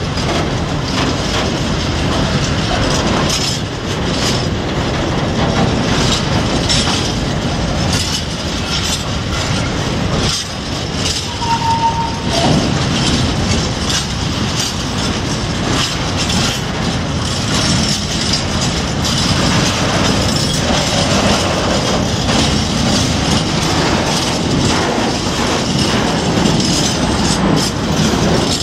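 Long freight train of open coal wagons rolling past close by, its wheels clattering steadily over the rail joints. A short high squeal comes in about twelve seconds in.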